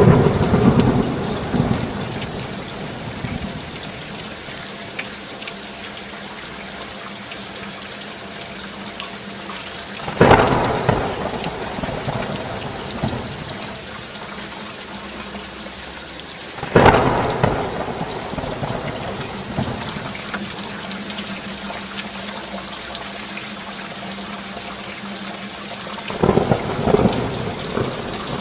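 Steady heavy rain with four loud crashes of thunder: one at the start, then about ten, seventeen and twenty-six seconds in, each dying away over two or three seconds.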